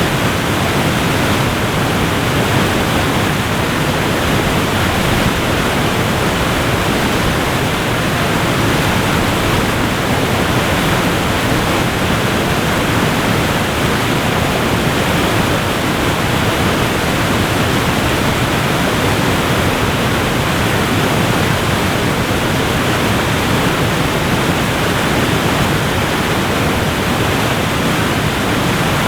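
Waterfall rushing: an even, steady wash of falling water that pulses slightly.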